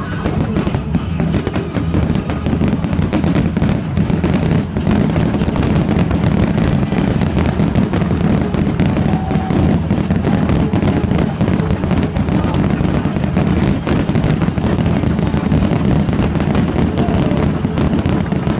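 A fireworks display firing nonstop: a dense, steady run of bangs and crackles from shells bursting overhead, with music playing underneath.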